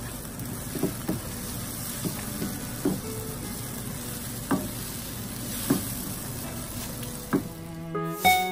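Spiced sambal paste and sliced onions sizzling in a nonstick frying pan while being stirred with a wooden spoon. The spoon knocks against the pan every second or so. Plucked-string music comes in near the end.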